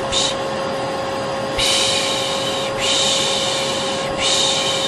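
Vacuum cleaner running with a steady hum, overlaid with repeated 'shh' shushing sounds for soothing a baby. There is one short shush at the start, then three longer ones of about a second each; the last runs on to the end.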